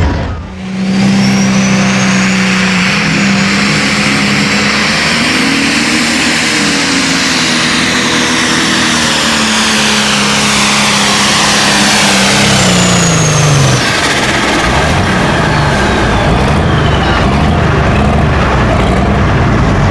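A high-powered pulling tractor's engine running flat out, loud and steady in pitch, falling off about fourteen seconds in.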